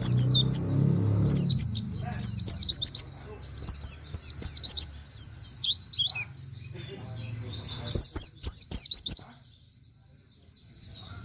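Pleci (white-eye) singing in rapid bursts of short, high, falling chirps, a fast 'wit wit' canary-like run, broken by a few pauses of a second or more.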